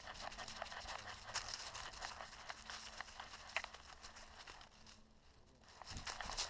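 Footsteps crunching and crackling on a dry trail while hiking, an irregular run of small cracks that eases off briefly about five seconds in.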